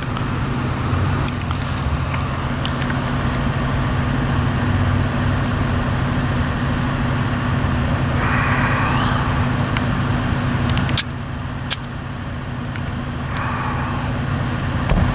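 A vehicle engine running steadily as a low, even hum, with a few sharp clicks over it and a short higher sound about eight seconds in.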